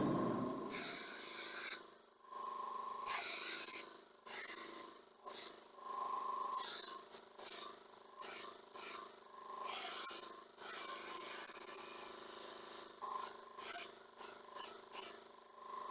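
Airbrush spraying paint in hissing spurts as the trigger is pressed and released. A few longer sprays are followed by a run of quick short bursts, with a faint steady hum underneath.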